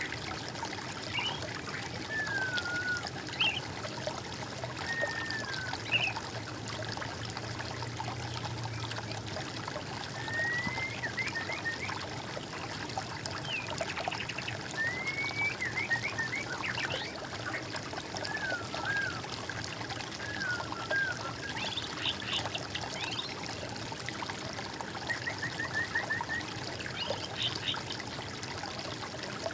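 Water trickling and pouring steadily, with birds singing over it in short whistled phrases, some falling or rising in pitch, and quick runs of chirps.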